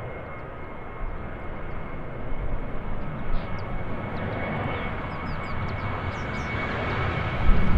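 Airliner engines running, a broad rush of engine noise with a steady high whine through it; a louder low rumble comes in near the end.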